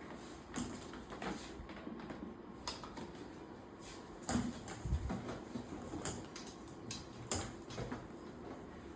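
Scattered light clicks and knocks, with a duller low knock about five seconds in; no motor is running.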